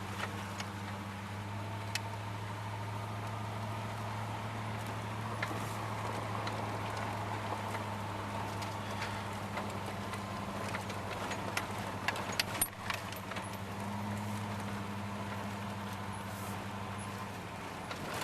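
Wood-gas-fuelled 1992 Dodge Dakota pickup driving along: a steady engine drone, with scattered clicks and rattles from the truck over the rough road.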